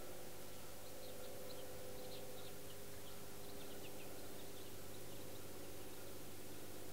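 Faint high chirps of a small bird, a quick scattered run of short notes lasting about three and a half seconds, over a steady low hum.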